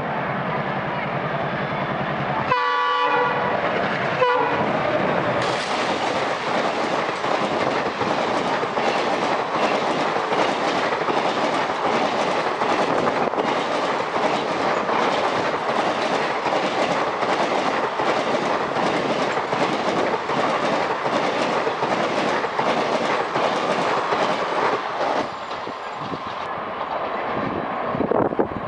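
An Indian Railways diesel locomotive horn sounds two short blasts. Then a passenger express hauled by an ALCO WDG-3A diesel runs past close by, its coach wheels clattering rapidly over the rail joints for about twenty seconds before easing off.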